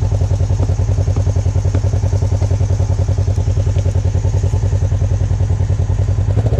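A 4x4 off-road vehicle's engine runs steadily at low revs, close to the microphone, with a rapid, even throb. It is the sound of the vehicle creeping along in low range.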